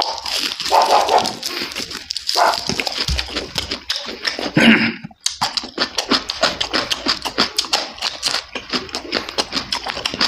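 A person chewing crispy fried pork fat right at the microphone: wet mouth and lip-smacking noises at first, then rapid crunching from about halfway through.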